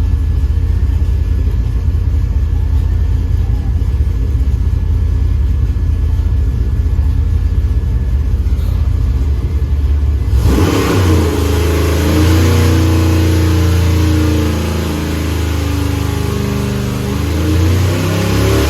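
Stroked 7.0-litre (427 ci) iron-block LS V8 running on an engine dyno with no boost. It runs as a deep steady rumble, then about ten seconds in it turns suddenly brighter and louder as it revs, its pitch wavering and rising again near the end.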